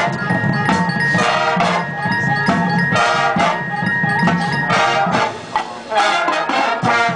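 Marching band playing: brass with mallet percussion and drums, starting abruptly.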